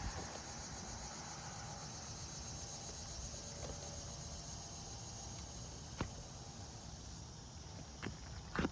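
Steady high chirring of crickets or other insects, with a single sharp tap about six seconds in and a few knocks near the end from a shingle nail remover being worked on the roof.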